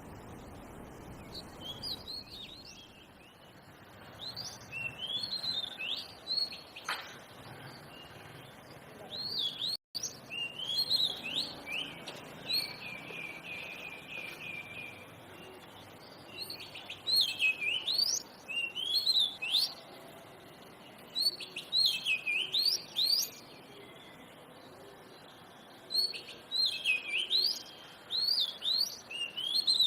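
Oriental magpie-robin singing: bursts of quick rising and falling whistled phrases separated by short pauses, with one fast run of repeated notes in the middle. The sound breaks off for a moment about ten seconds in.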